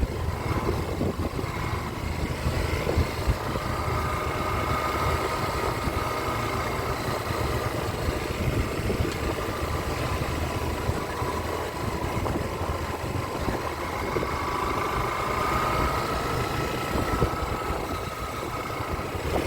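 Small-displacement motorcycle engine running steadily, its pitch drifting slightly up and down.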